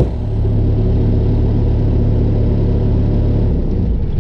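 Bobcat skid steer engine running steadily with a loud low hum; about three and a half seconds in its steady low note drops away as the engine starts to wind down.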